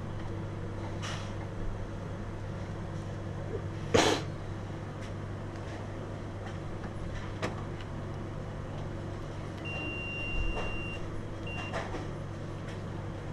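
Steady low mechanical hum, with a few sharp clicks or knocks, the loudest about four seconds in, and a short high electronic beep near the end followed by a brief second one.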